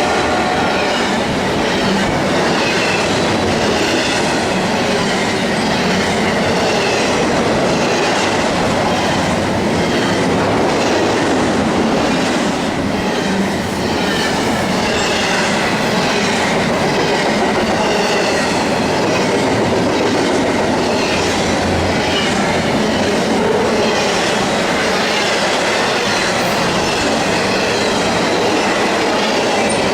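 Norfolk Southern intermodal freight train passing at speed: a loud, steady rush of steel wheels on rail with a stream of clicks as the wheels cross rail joints.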